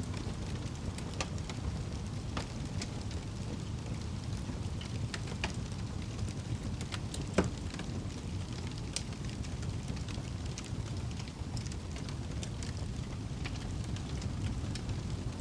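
Fire burning in a fireplace: a steady low rumble of flames with scattered crackles and pops, the loudest pop about halfway through.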